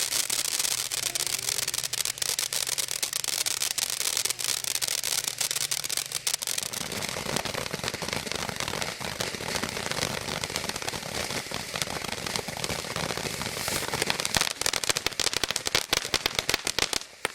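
A consumer firework from a selection box crackling and popping continuously over a steady hiss. The cracks grow louder and denser near the end, then stop suddenly.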